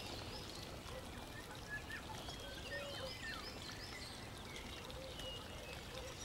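Faint birds chirping now and then, short scattered calls over a steady low background hiss.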